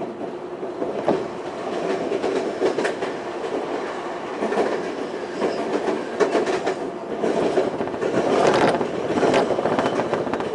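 Semboku 5000-series commuter train running, heard from inside the car: a steady running noise with the wheels clicking over rail joints. It grows louder about a second in, and louder again past the middle as a train rushes by on the next track.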